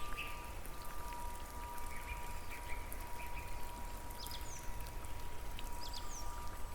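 Rain with scattered drops pattering over a steady hiss and a low rumble, plus a thin steady tone. Two brief high chirps come about two-thirds of the way through and again near the end.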